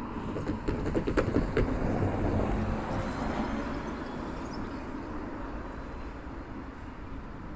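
Train passing over a level crossing: a quick run of wheel clacks in the first two seconds or so, then a steady rumble that slowly fades.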